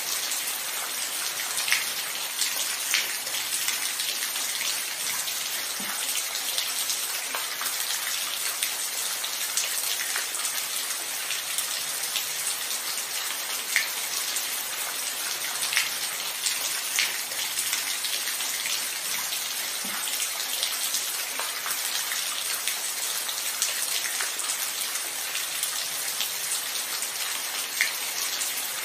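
Steady rainfall: an even hiss of rain with scattered louder individual drops ticking close by every second or two.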